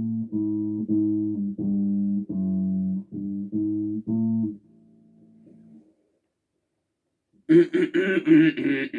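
Bass guitar played as a run of about ten separate plucked notes, roughly two a second, ending in a soft fading note and a short pause. Near the end a loud voice-like vocal sound begins.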